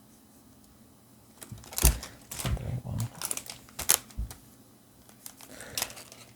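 Foil booster-pack wrapper crinkling and clicking as it is handled, in a quick string of sharp crackles that starts about a second and a half in and trails off near the end.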